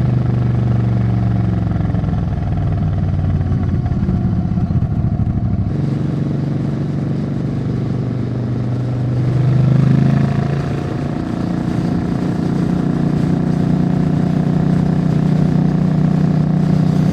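Suzuki Intruder 800's V-twin engine running under way as the motorcycle is ridden. Its note shifts about six seconds in, climbs to a peak about ten seconds in as it speeds up, then drops back and holds steady.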